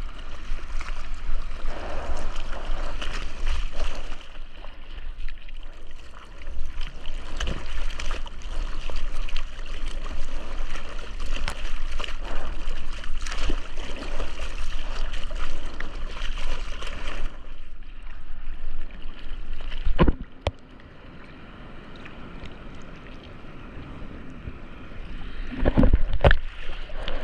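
Ocean water rushing and splashing around a surfer's GoPro in the surf, a steady loud wash with frequent splashes. About 20 seconds in it drops suddenly to a much quieter, duller sound, and a loud splash comes shortly before the end.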